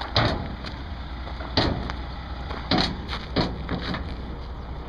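Four sharp knocks or bangs, with a few lighter ones between, over the low steady rumble of an idling dump truck engine.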